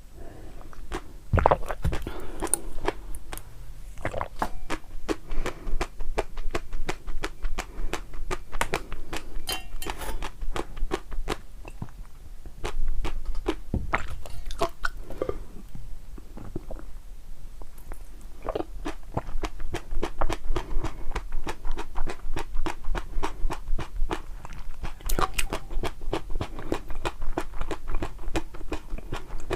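A person chewing crunchy food close to the microphone, with a steady chewing rhythm of crisp crackles and crunches.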